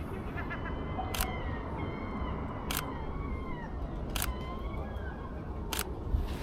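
Camera shutter firing four times, about a second and a half apart, as a series of overlapping frames is taken to stitch into a panorama.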